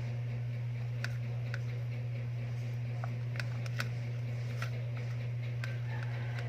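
Soft slime being handled and squeezed, giving scattered small sharp clicks and pops at irregular intervals over a steady low electrical hum.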